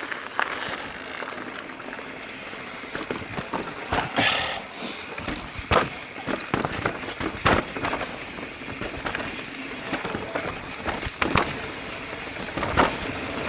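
Mountain bike riding down a dirt singletrack: tyres rolling on dirt under a steady rush of noise, with frequent sharp knocks and clatters as the bike goes over bumps.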